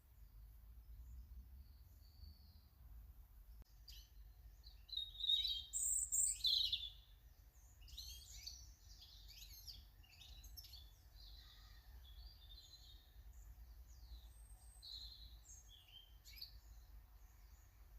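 Garden birds singing and calling, a run of short high chirps and warbles, with a louder burst of song about five seconds in that lasts around two seconds. A steady low rumble runs underneath.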